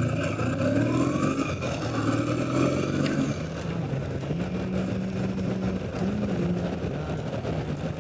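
Kawasaki W650's air-cooled parallel-twin engine running as the motorcycle is ridden, its pitch stepping up about halfway through and shifting again shortly after.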